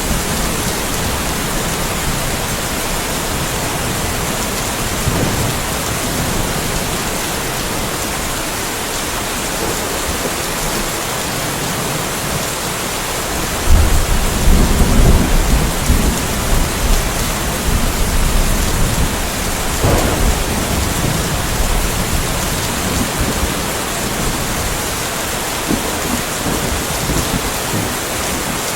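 Steady rainfall with a thunderclap about halfway through: it starts suddenly, rumbles low for several seconds and dies back into the rain.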